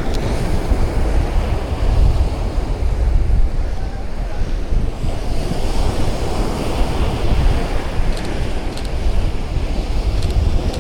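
Strong wind buffeting the microphone in a heavy low rumble, with ocean surf washing on the shore behind it.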